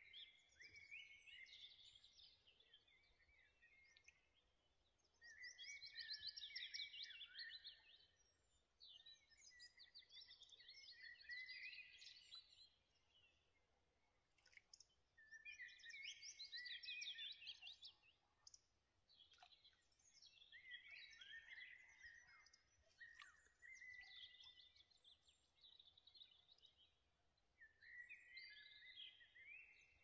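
A songbird singing quietly in about seven rapid, twittering phrases, each two to three seconds long with short pauses between.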